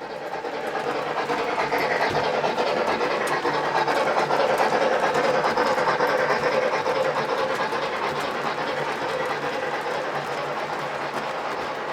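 Model train running on the track: a steady motor whirr with fine rapid clicking of wheels over the rails, growing louder over the first two seconds and easing off slightly toward the end.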